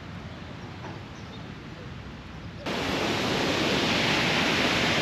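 Faint outdoor background, then, after an abrupt cut about two and a half seconds in, the loud, steady rush of a waterfall's falling water.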